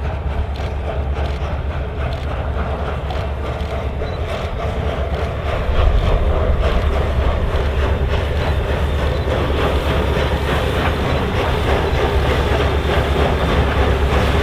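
A train running past on jointed track: a steady heavy rumble with wheels clicking over rail joints, getting louder about six seconds in.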